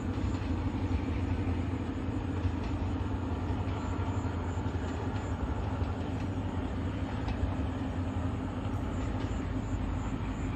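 Diesel passenger train running away along the track, a steady low engine drone with the rumble of the train.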